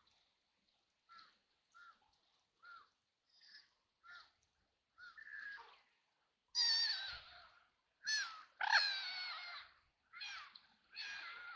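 Ducks quacking: a run of short, faint quacks, then louder, longer, raspy quacks from about halfway through.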